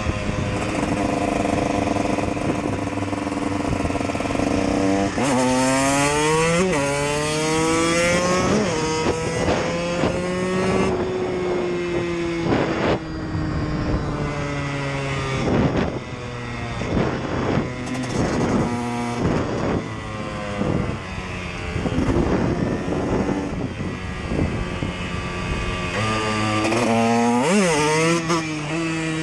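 A KTM EXC single-cylinder dirt bike engine accelerating hard. Its pitch climbs steeply and breaks at each gear change, then falls away as it slows. Near the end it revs up sharply once more and drops.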